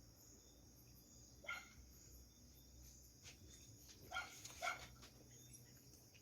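A dog barking faintly in the distance, three short barks: one about a second and a half in, then two close together past the four-second mark, over a quiet background.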